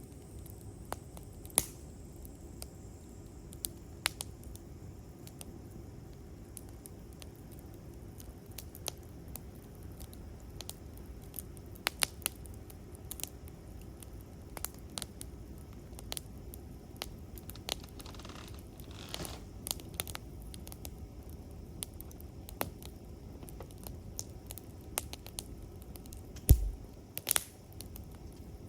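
Campfire crackling, with irregular sharp pops and snaps over a low steady rumble of burning wood, a brief hiss just before the middle, and a louder thumping pop followed by another sharp snap near the end.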